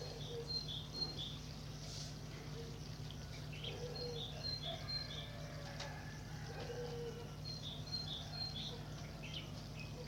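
A small songbird singing, repeating a short phrase of three or four high, clipped notes three times, over a steady low hum.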